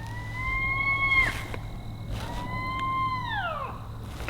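Coyotes howling: two long howls, each holding a steady pitch and then sliding down, the second trailing off more slowly.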